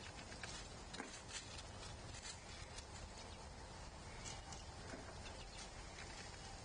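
Light, irregular taps and clicks over a steady outdoor background: birds pecking and shifting about on a platform feeder.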